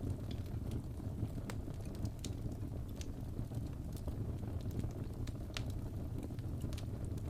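Fire crackling in a fireplace: scattered sharp pops and snaps, irregularly spaced, over a steady low rumble of the flames.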